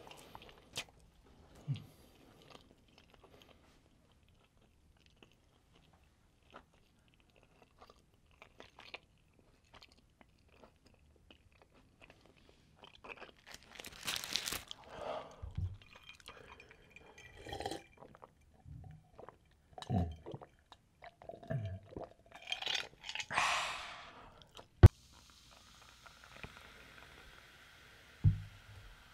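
Close-miked eating of a McDonald's cheeseburger: wet chewing and smacking with rustles of the paper wrapper, louder about halfway through and again near the end. A single sharp knock a few seconds before the end, then a soft steady fizzing hiss from cola in a glass mug.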